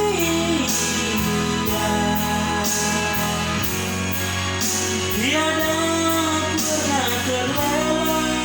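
Indonesian worship song with band accompaniment: a voice sings a line with sliding, held notes at the start and again from about five seconds in, over a steady beat.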